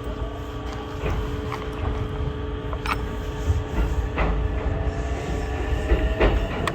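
Interior sound of an Ichibata Electric Railway train: a steady low rumble with a constant electrical hum, and a few sharp clicks and knocks.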